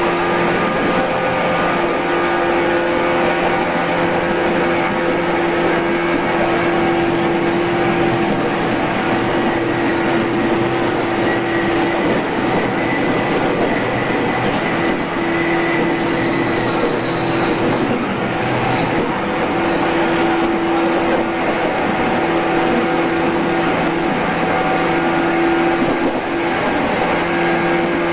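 JR East 113 series electric train running at steady speed, heard aboard: a continuous rumble of wheels on rail with a steady motor and gear hum.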